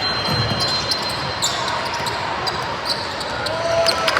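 Basketball game in a gym: a ball bouncing and sharp knocks on the court, with a couple of short squeaks near the end, over a steady hum of the hall.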